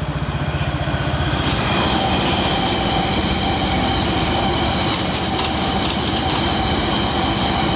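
A passing electric train, its steady whine and rumble building about a second and a half in, over the Yamaha BWS 125 scooter's single-cylinder engine idling through its aftermarket exhaust.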